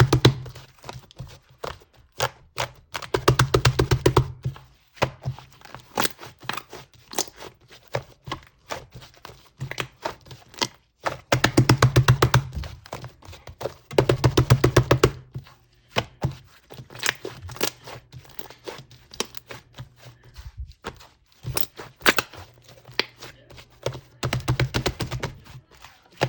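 Yellow slime being squeezed and pressed, in bursts of rapid sticky clicking and crackling with quieter clicks between.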